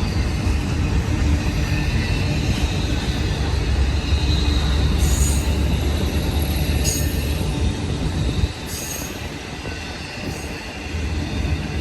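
Freight train cars rolling past: a steady low rumble of wheels on rail with high wheel squeal over it. The rumble drops off about two-thirds of the way through, then builds again near the end.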